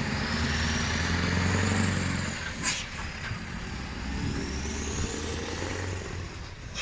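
Scania V8 truck engine running with a steady deep note, louder for the first two seconds and then fading away. A single sharp click comes just under three seconds in.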